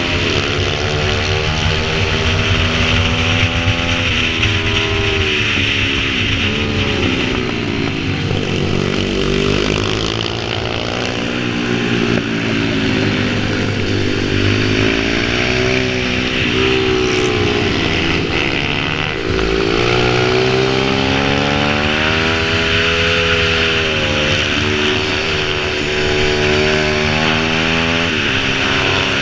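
Pit bike engine running, its pitch rising and falling again and again as the throttle is opened and closed.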